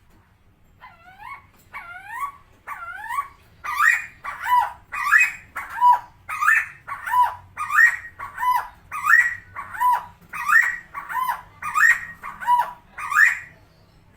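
Helmeted friarbird calling: a long run of repeated harsh, swooping notes, about one and a half a second. The first three are softer, and the rest are loud and even.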